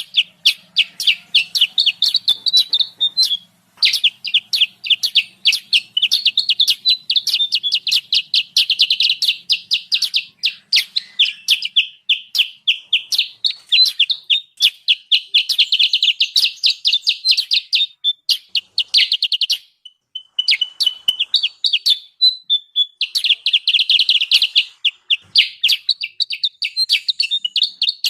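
Recorded lure calls of kutilang sutra, Indonesian songbirds, chattering noisily: a dense run of rapid, high chirps, several a second, broken by brief pauses about three seconds in and again around twenty seconds.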